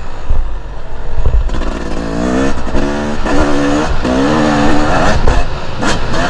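Two-stroke enduro dirt bike engine revving in several short rising pulls, starting about a second and a half in, over a heavy low rumble of wind on the microphone.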